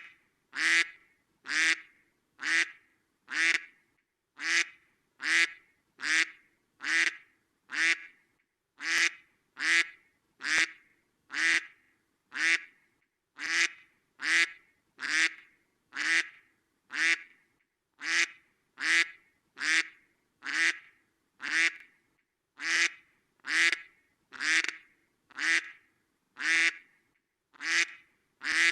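A duck quacking over and over, single short quacks evenly spaced a little more than one a second, each one alike, with silence between.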